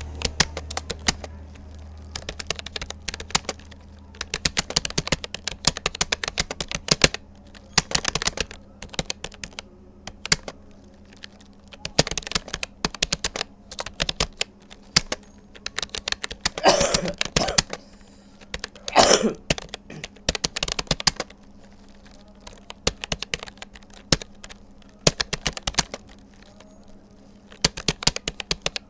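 Typing on a Rapoo computer keyboard: fast runs of key clicks broken by short pauses. A person coughs twice, around the middle.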